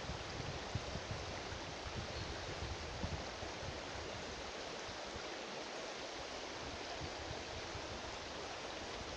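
River water rushing steadily, a continuous even hiss of flowing current.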